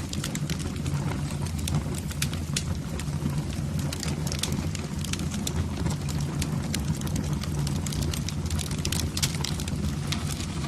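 Wood fire burning in a fireplace: a steady low rumble with frequent sharp crackles and pops, several a second.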